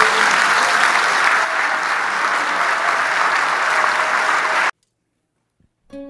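Audience applauding, the clapping cutting off suddenly a little before the end as if edited. After a moment of silence, a plucked-string music intro begins.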